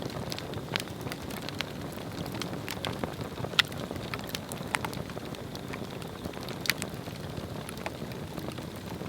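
Swedish torch log fire burning: a steady low rush of flame with scattered sharp crackles and pops, the loudest pops about three and a half seconds in and again near seven seconds.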